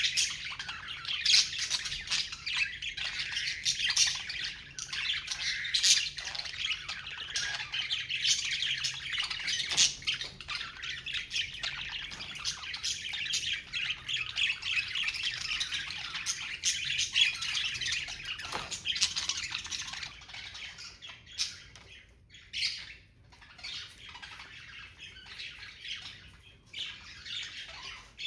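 Several budgerigars chirping and chattering. The calls are dense for the first two-thirds, then thin out to scattered calls near the end.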